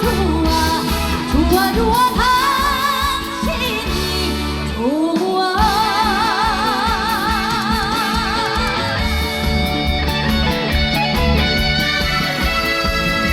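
Live trot song: a woman singing over a backing band. About halfway through she slides up into a long held note with wide vibrato.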